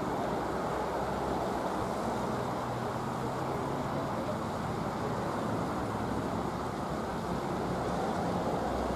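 NJ Transit train hauled by an ALP-45DP locomotive approaching: a steady low rumble with an even noise over it and no clear tone, rising slightly near the end.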